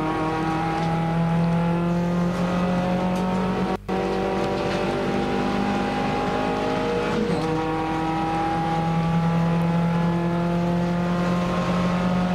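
Nissan March one-make race car's engine heard from inside the cabin, pulling hard with its pitch climbing steadily. About seven seconds in the pitch drops at an upshift, then climbs again. The sound cuts out for an instant near four seconds in.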